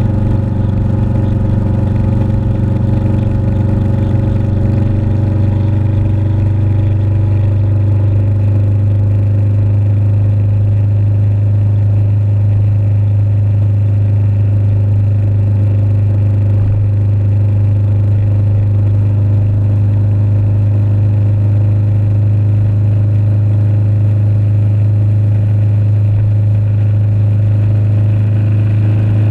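Motorcycle engine running steadily at cruising speed, a constant low drone that holds the same pitch throughout, with rumble underneath.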